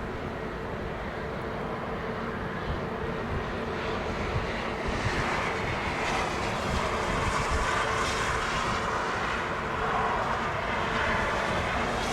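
Jet engines of an Airbus A330-300, Rolls-Royce Trent 700 turbofans, during landing: a steady rushing noise that grows louder and brighter about five seconds in.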